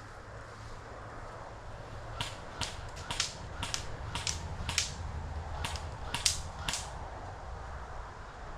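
Airsoft gun firing a string of about ten sharp single shots, irregularly spaced at roughly two a second.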